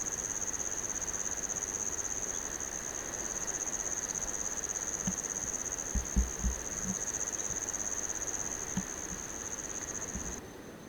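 A cricket-type insect trilling steadily on one high pitch, with a few low thumps about six seconds in. The trill drops away near the end.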